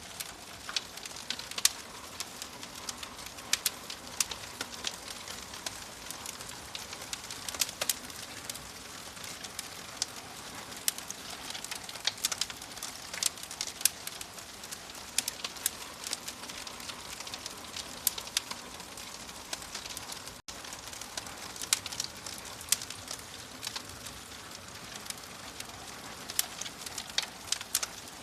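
Wood fire in a fireplace crackling: a steady hiss with many sharp, irregular pops and snaps. The sound cuts out for an instant about twenty seconds in.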